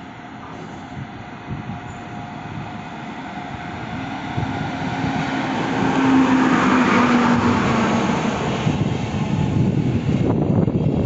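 Electric locomotive hauling an Intercity train into the station, growing steadily louder as it nears. The locomotive passes with a steady hum about halfway through, followed by the rumble and clatter of the coaches' wheels on the rails.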